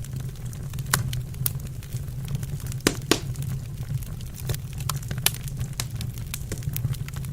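Wood fire burning in a fireplace: irregular sharp pops and snaps of crackling logs over a steady low rumble, with two loudest pops about three seconds in.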